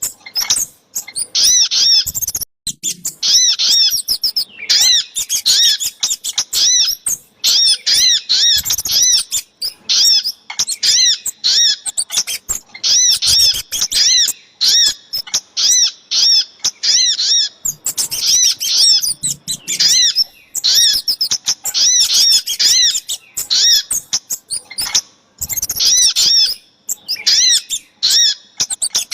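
Bird-lure recording of small songbird calls, sogok ontong and kemade mixed together: rapid runs of high, arched chirps in phrases of a second or two, separated by brief gaps and repeating.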